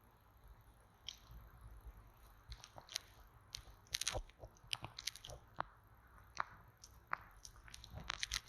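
Close-miked ASMR trigger sounds: irregular crisp clicks and crackles, sparse at first and then coming several a second, with the loudest cluster about four seconds in and another just before the end.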